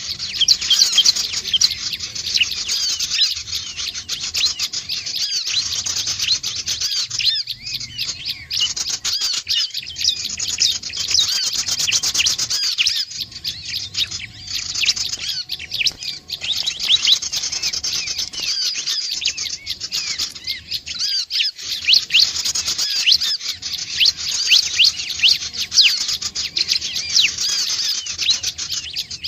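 Bar-winged prinia (ciblek) calling: a dense, rapid stream of short high chirps that keeps on with only brief lulls.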